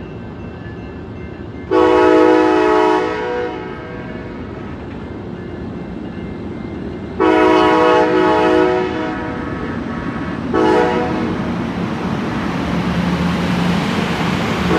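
Diesel locomotive's multi-chime air horn sounding two long blasts and a short one, the grade-crossing signal, over the rumble of the approaching train, which grows louder toward the end.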